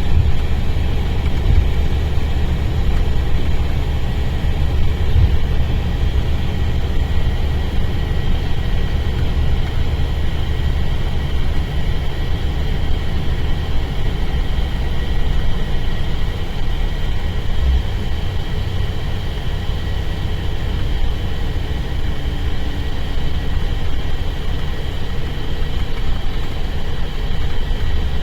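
Diesel engine of a Mercedes-Benz O-500RSD double-deck coach running steadily with a deep rumble and a faint high whine over it.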